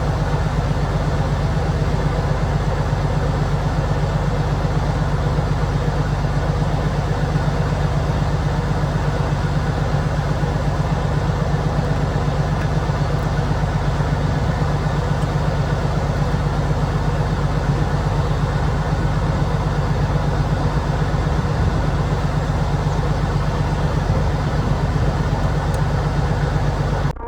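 Kenworth W900 semi truck's diesel engine idling steadily as it warms up.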